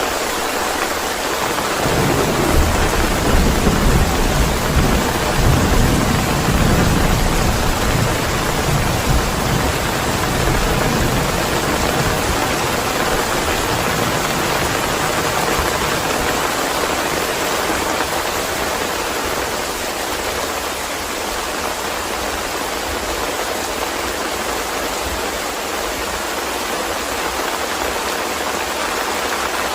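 Steady rain, with a low rumble of thunder that swells about two seconds in and dies away over the next ten seconds or so.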